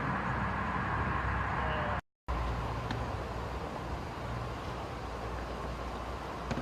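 Steady outdoor road-traffic noise with a low engine rumble, broken by a brief cut to silence about two seconds in.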